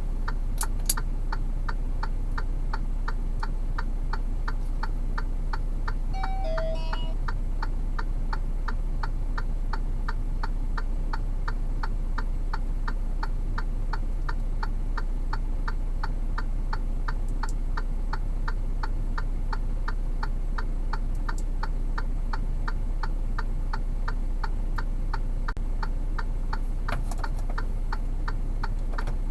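Hazard-light flasher relay clicking steadily, a few clicks a second, over a steady low rumble; a short falling chirp of tones comes about six seconds in.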